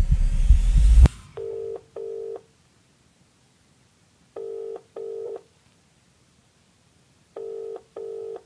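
Telephone ringback tone: three double rings, each pair of short steady tones repeating about every three seconds, as a call rings out at the other end. It is preceded by a loud low pulsing with a rising hiss that cuts off suddenly about a second in.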